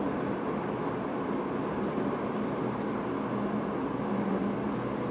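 Airport people-mover train car, a steady hum and rumble heard from inside the car.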